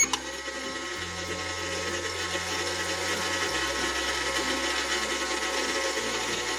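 Toy Magical Microwave running with a steady mechanical hum after a click as it is started, a low tone beneath it shifting pitch every second or two.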